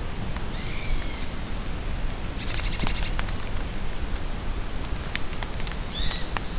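Songbirds calling over steady rain in a forest: a few short, down-slurred whistled calls, one rapid trill about two and a half seconds in, and thin high notes, with scattered raindrop ticks against a constant rain hiss.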